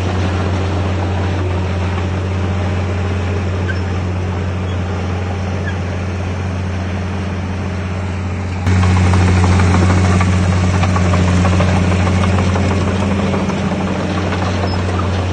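Heavy diesel earthmoving machinery running steadily with a low, even hum. It gets abruptly louder about two-thirds of the way through.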